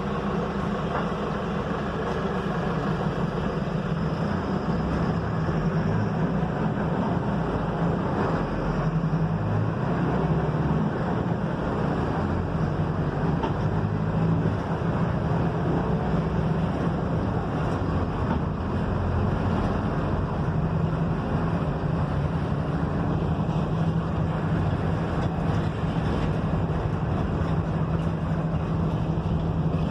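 Diesel engine of a Mercedes-Benz OF-1721 bus running steadily under way, a constant low hum with its lower tones shifting now and then, over road and body noise.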